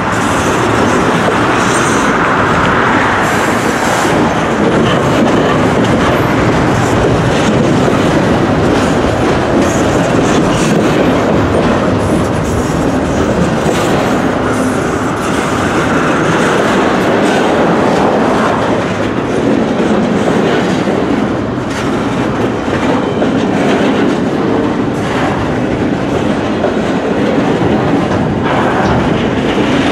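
Double-stack intermodal well cars of a long freight train rolling past: a loud, steady rumble of steel wheels on the rails, with a continual clicking and clattering of wheels over rail joints.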